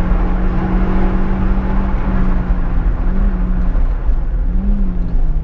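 Opel Corsa GSi rally car's engine pulling hard on a stage, holding one steady note over dense tyre and road noise heard from inside the cabin. The note wavers up and back twice in the second half.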